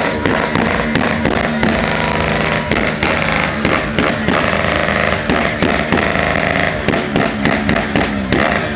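Loud music blasting from car sound systems, dense and harsh with a fast repeating beat.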